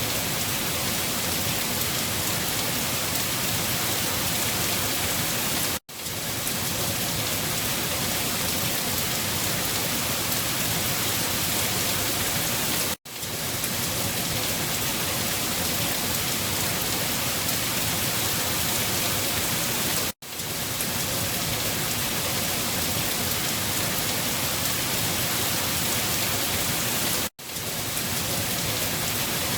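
Steady rain falling, an even hiss of drops with no thunder. The sound cuts out for a split second about every seven seconds, four times, then comes straight back.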